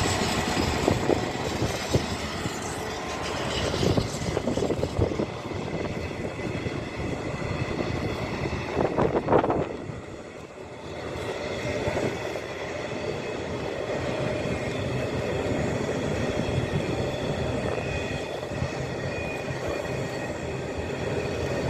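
A freight train hauled by Class 66 diesel locomotive 66109 runs past, its EMD two-stroke V12 engine and the wagon wheels making a continuous rumble. Wheels knock over rail joints in the first few seconds, and a brief louder rush about nine seconds in is followed by a steady run of wagons.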